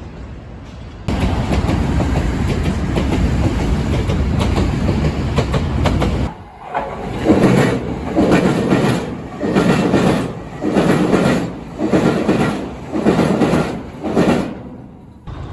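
A train passing close by: a steady loud rush for about five seconds, then a run of rhythmic clattering thumps about once a second as the wheels of successive cars pass, cutting off suddenly near the end.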